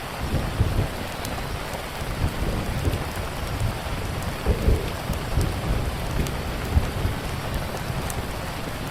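Steady heavy rain under a flickering low rumble of thunder that swells a few times, with occasional faint sharp crackles from a wood fire.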